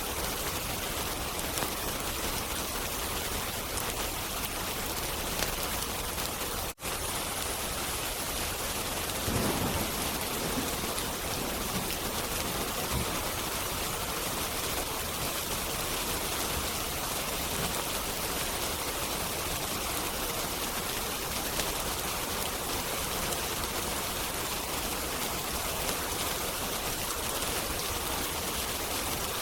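Steady heavy rain as a continuous hiss. A brief low rumble comes about nine seconds in, and the sound cuts out for a split second about seven seconds in.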